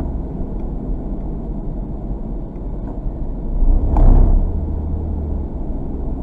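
Steady low rumble of a vehicle driving, engine and road noise, with a sudden louder thump about four seconds in.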